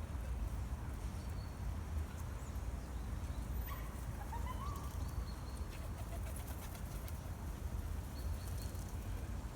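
Pigeons cooing in a courtyard, with a short chirp from a small bird about four and a half seconds in, over a steady low rumble.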